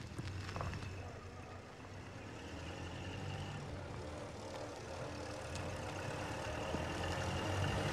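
A vintage car's engine running as the car drives closer, a steady low hum that grows gradually louder.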